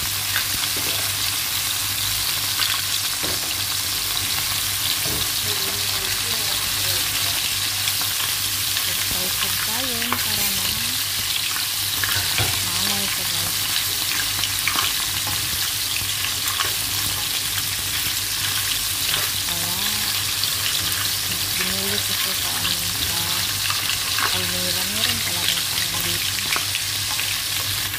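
Green-lipped mussels in their shells sizzling steadily in a hot nonstick frying pan, with small clicks and clatters of the shells as a spatula stirs them.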